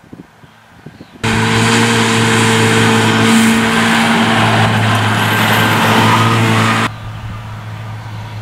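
Claas Arion 650 tractor running under load with a Claas Disco disc mower cutting grass: a loud, steady engine drone over a dense whir. It cuts in suddenly about a second in and drops suddenly near the end to a quieter, steady engine hum.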